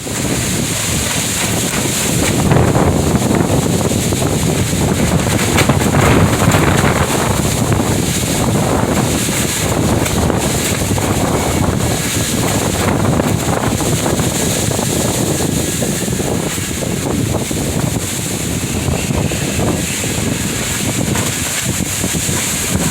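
Strong wind gusting hard against the microphone, a loud rushing roar that surges and eases, as a storm approaches.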